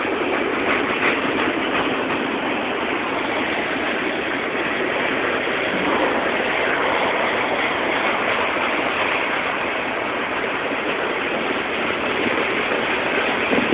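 Loaded coal hopper cars rolling past: a steady, even noise of steel wheels on rail, heard through a phone's limited-range microphone.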